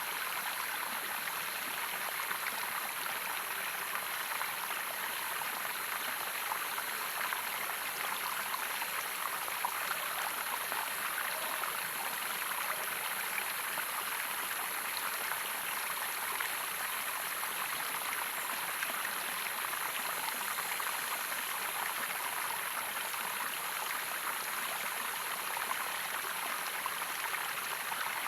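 Running water, a steady, unbroken rush that holds the same level throughout.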